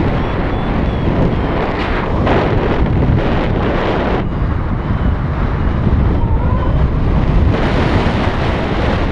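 Airflow buffeting the microphone in flight under a paraglider: a loud, steady rush of wind. It thins for a few seconds in the middle and swells again near the end.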